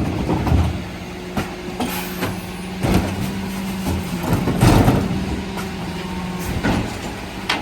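Mercedes Econic refuse truck running, with a steady mechanical hum and several sharp knocks and clatters, the loudest about three and five seconds in.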